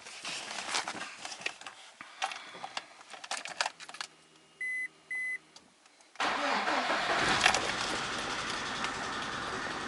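Small clicks and rattles, then two short beeps about five seconds in. About a second later the VAZ 124 16-valve engine cranks, catches on a cold start and keeps running. On this cold start a hydraulic lifter taps for a few seconds, the same lifter knock the owner is trying to find.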